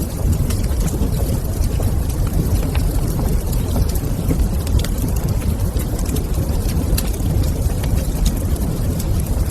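Wood fire crackling in a fireplace: frequent small sharp pops over a steady low rumble.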